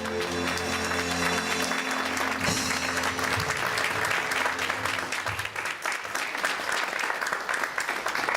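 Audience applauding, with the last held chord of a piece of music fading out under the clapping during the first few seconds.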